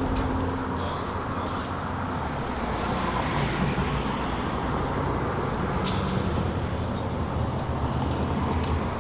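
Car engines running at low revs, a steady low drone with a pitch that shifts slightly from time to time.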